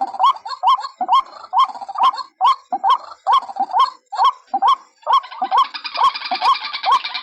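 White-breasted waterhen (ruak-ruak) calling, a fast, steady run of short hooked notes at about two a second. From about five seconds in, a harsher, raspier calling layer joins.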